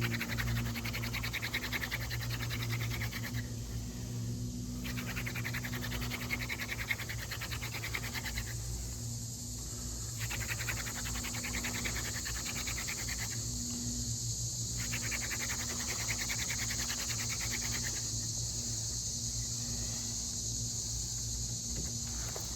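Hand drill fire-making: a horseweed stalk spindle spun back and forth by hand in a mullein stalk fireboard, a rapid scratchy rubbing in runs of about three seconds with short breaks as the hands go back to the top of the spindle. The drilling stops about eighteen seconds in.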